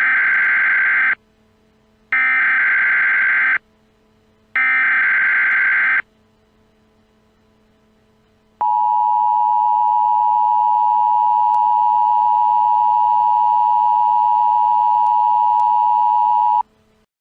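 Emergency Alert System SAME header: three bursts of warbling digital data tones, each about a second and a half long, followed after a short pause by the EAS two-tone attention signal (853 and 960 Hz) held steady for about eight seconds. This is the standard encoded header and alert tone that come before a broadcast emergency message.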